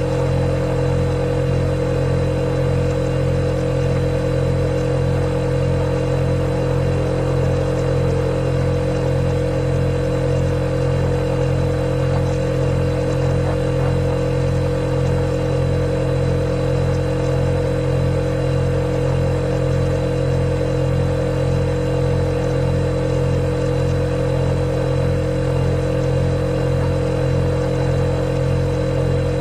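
Refrigerator running with a steady, unchanging hum: a strong low drone with a few fixed tones above it and a faint high whine.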